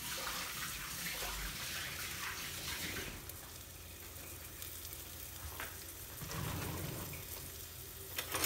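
Flour-coated chicken pieces shallow-frying in hot oil in a frying pan: a steady sizzle, the sign that the oil is hot enough.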